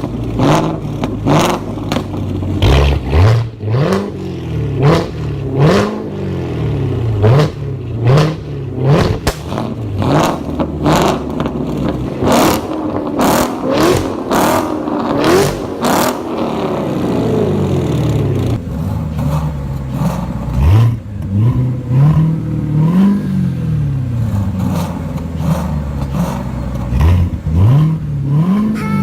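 Two V8 sports cars with aftermarket exhausts, a Ford Mustang GT and a Corvette Z06, revved in turn: repeated quick blips that rise and fall in pitch, with sharp crackles through the first half.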